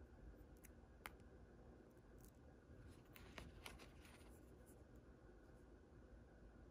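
Near silence with faint handling of small toy packaging: a sharp click about a second in, then a short cluster of soft clicks and crinkles near the middle.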